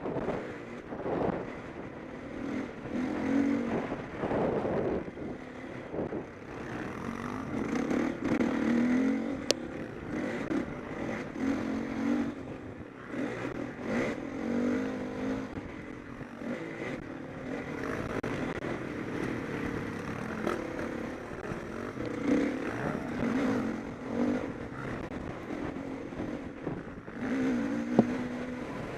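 Motocross motorcycles racing, their engines revving up and dropping back again and again as the bikes go round the track. There are a couple of brief sharp clicks.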